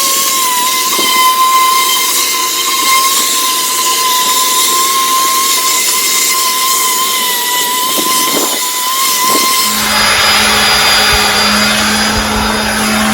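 Power sander with 220-grit paper running steadily on an outboard motor's painted housing, sanding it down for repainting, with a high, slightly wavering whine. About ten seconds in, its sound changes to a lower, steady hum.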